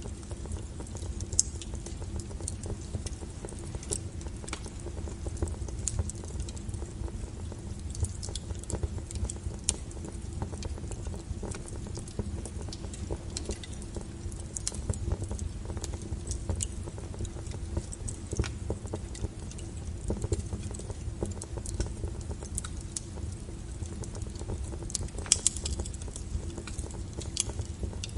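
Wood fire burning with a steady low rumble of flames and irregular crackles and pops of burning firewood, a few louder snaps among them.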